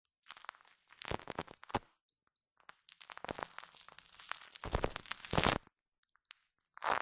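Shaving foam squished and worked right against the microphone, giving sticky, crackling squelches in bursts: a short one early, a long one through the middle, and a brief one near the end.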